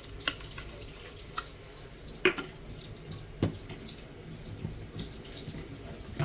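Light kitchen clicks and knocks of utensils and containers while vegetables are being seasoned, four or five in all, the loudest a little over two seconds in, over a faint steady hiss.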